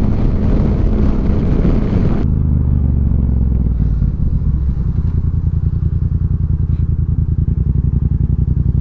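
Wind noise rushing over the microphone from a moving motorcycle, which cuts off sharply about two seconds in as the bike slows to a stop. After that, the motorcycle's engine runs at idle with a steady low beat.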